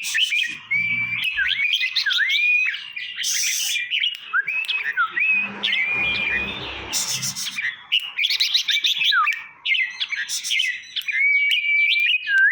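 Red-whiskered bulbul song: a fast, unbroken run of short whistled phrases and chirps, some held briefly on one note, others swooping down and back up, with a few harsher, scratchier notes mixed in.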